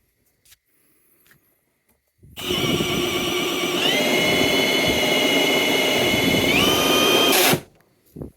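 Milwaukee M18 Fuel cordless hammer drill spinning a Flexshaft drain-cleaning cable in a sewer pipe, running for about five seconds. Its motor whine steps up in pitch twice as the speed is raised, then it stops suddenly.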